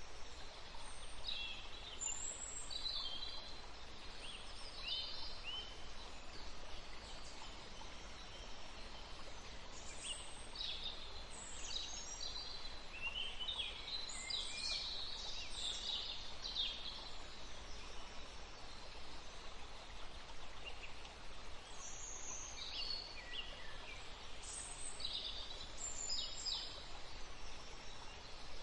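Birds chirping and calling in short high notes and quick trills, coming in spells with pauses between, over a steady background hiss.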